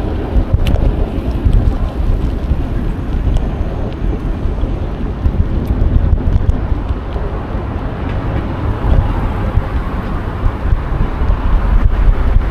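Wind buffeting an action camera's microphone on a moving bicycle: a loud, gusty low rumble that carries on throughout.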